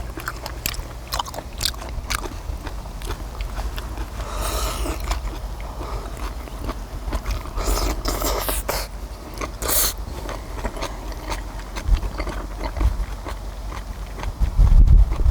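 Close-up chewing and biting of chewy stir-fried small octopus and kimchi, with many small wet mouth clicks and a few louder noisy bursts. A dull thump near the end is the loudest sound.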